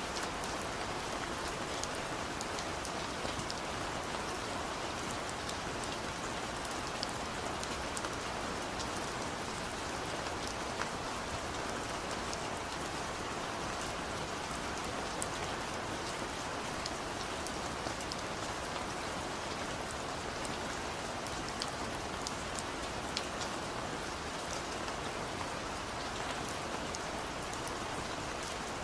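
Steady rain falling, with a constant hiss and many small drop patters scattered through it.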